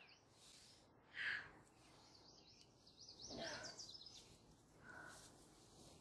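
Faint outdoor quiet in which a bird sings a quick run of rising chirps about two to four seconds in, while a person gives short breathy gasps as she crawls, the loudest about a second in.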